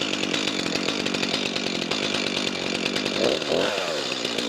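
Stihl two-stroke chainsaw running steadily, just caught after being flooded on repeated pull-starts and staying lit. There is a brief rise and fall in its pitch a little over three seconds in.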